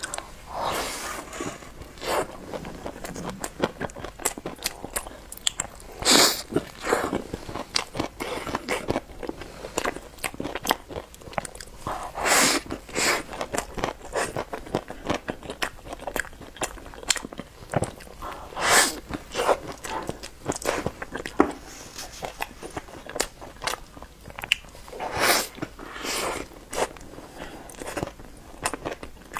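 Close-miked mouth sounds of a person biting into and chewing a glazed, filled bread roll: a run of small wet clicks of chewing, with louder bursts about every six seconds.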